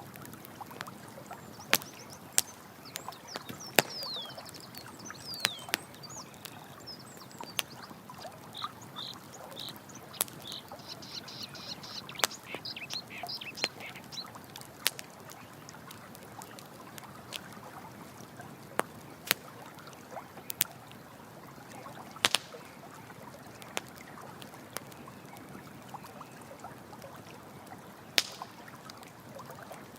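Campfire crackling with frequent sharp pops over steady running water. A bird chirps and whistles in quick high notes through the first half.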